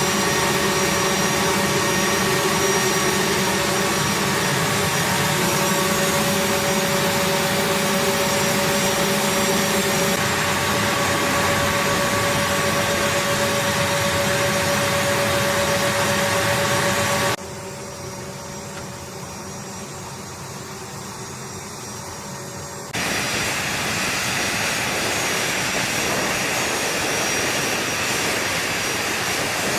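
A-10 Thunderbolt II's twin General Electric TF34 turbofan engines running, a steady jet whine with several held tones over a rush of noise. About 17 seconds in the sound drops abruptly to a quieter rush, and about 23 seconds in it jumps back louder as a rougher roar with less whine.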